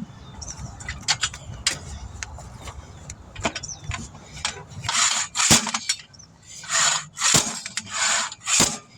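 Hand-operated bead breaker being worked against the second bead of a minivan tire to push it off the rim: scattered metal clicks and clanks, then a run of about five short hissing strokes roughly a second apart in the second half.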